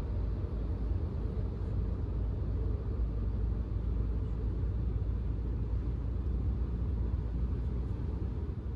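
Steady low rumble of a car driving on the road, fading out near the end.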